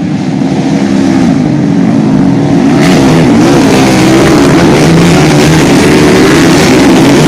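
Motocross bike engines revving hard, the pitch rising and falling over and over. The sound builds over the first couple of seconds, then stays loud.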